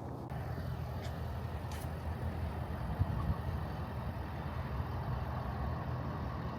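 A vehicle engine running with a steady low rumble, with a short knock about three seconds in.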